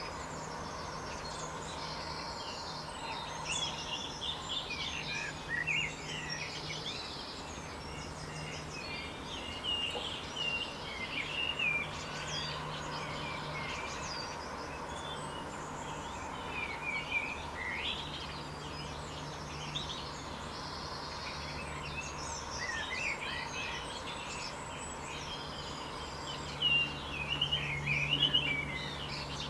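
Birds calling throughout: many short chirps sliding up and down, mixed with harsh, rattly calls, the calls loudest near the end. Underneath is a steady background hiss with a faint low hum that comes and goes.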